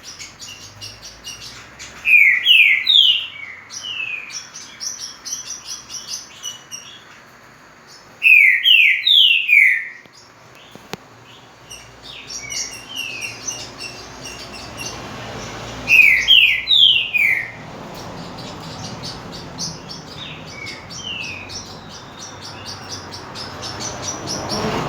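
Green-winged saltator (trinca-ferro) singing three loud phrases about six to eight seconds apart, each a quick run of three or four clear whistled notes, with rapid high chirping between them.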